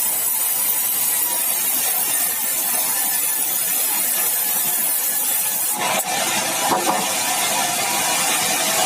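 Sawmill running steadily, a loud even mechanical noise with faint steady tones; its sound changes about six seconds in.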